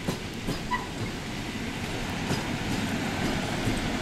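EN57 electric multiple unit rolling past at close range, a steady rumble with a few sharp knocks from the wheels in the first second and another a little after two seconds.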